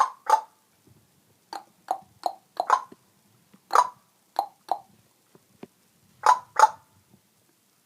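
Parrot making a clucking sound: about a dozen short, hollow clucks, often in quick pairs, with irregular pauses between them.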